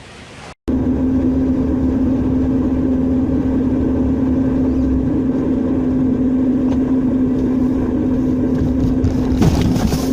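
An engine running steadily at an unchanging pitch, with a brief louder rush near the end.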